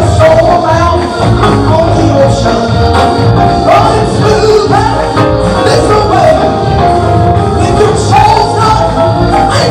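Gospel music in a church service: singing over a band, with steady bass and a regular percussion beat.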